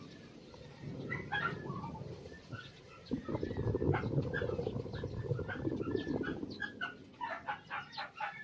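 Birds calling in a yard: many short, high chirps in quick succession over a low, uneven rumbling sound.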